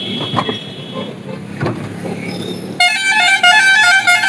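Vehicle horns sounding on a busy road. About three seconds in, a loud horn starts, its pitch stepping up and down like a short tune.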